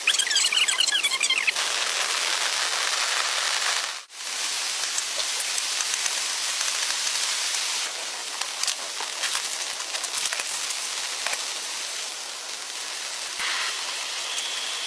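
Heavy rain falling, a steady hiss with scattered drop ticks. Shrill chirping rides over it for the first second and a half, and the sound cuts out briefly about four seconds in.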